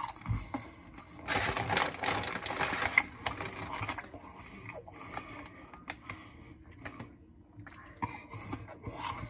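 Chewing a mouthful of Candy Pop Twix caramel-chocolate popcorn: a run of small, irregular crunches. About a second in there is a louder stretch of about two seconds, likely crinkling of the snack bag.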